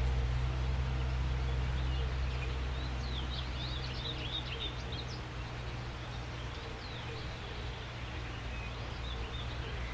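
Small birds chirping in short, quick high calls, with a busy flurry about three to four seconds in, over a steady low rumble of background noise.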